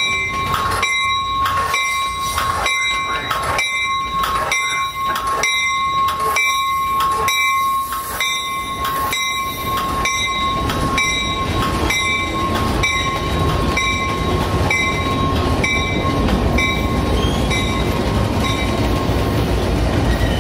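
A bell clanging steadily, about one and a half strikes a second, that fades away in the second half. Meanwhile the low rumble of a diesel passenger locomotive's engine builds as it throttles up.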